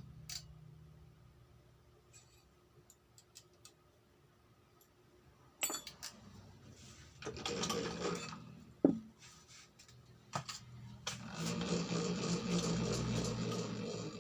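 Metal tools and parts clinking and clattering as they are handled, with one sharp clank a little past the middle; a cylinder boring machine then runs steadily for the last few seconds.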